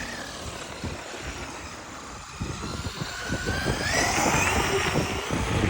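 Traxxas RC car's electric motor whining: the pitch sinks slowly, then climbs again about three seconds in as the throttle opens.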